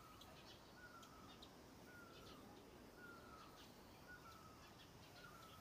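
Faint bird calls: one bird repeats a short, slightly falling whistled note about once a second, with fainter high chirps in between.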